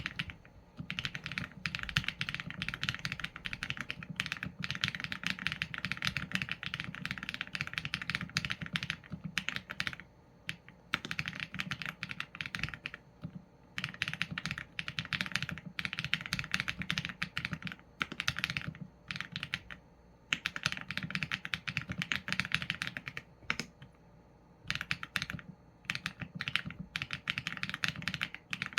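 Typing on a Qsenn A75 mechanical keyboard with Leobog Graywood v4 linear switches and PBT keycaps: quick runs of keystrokes, broken now and then by short pauses of about a second.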